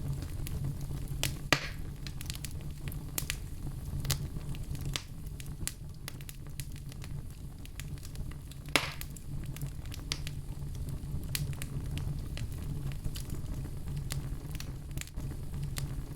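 Wood fire crackling, with scattered snaps throughout and two louder pops, over a steady low hum.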